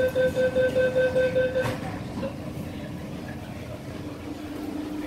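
MTR South Island Line S-Train door-closing warning: a rapid run of beeps, about five a second, that stops about a second and a half in with a brief knock as the doors shut. After that, the train's steady electrical hum.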